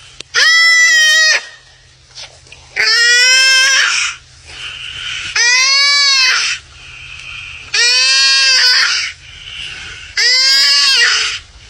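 An animal bleating loudly: five long cries, each rising and then falling in pitch, evenly spaced about every two and a half seconds.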